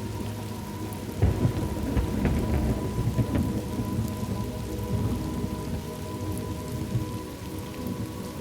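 Thunderstorm ambience: steady rain falling, with a low thunder rumble breaking about a second in and rolling away over several seconds.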